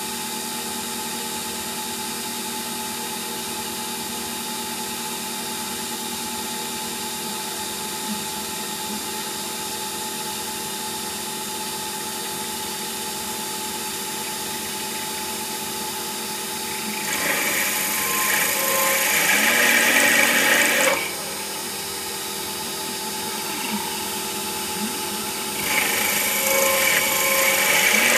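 CNC lathe running with a steady machine hum, then cutting the part twice. Each cut is a louder hissing, scraping stretch of several seconds: the first comes a little past the middle, the second near the end.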